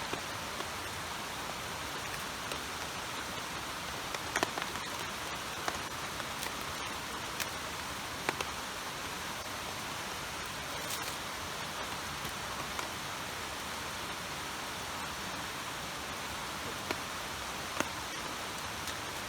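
Steady, even hiss of water with a few sparse sharp pops and ticks scattered through it.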